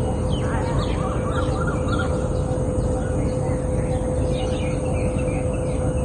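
Several birds chirping outdoors, many short falling calls overlapping throughout, over a steady low rumble and a constant hum.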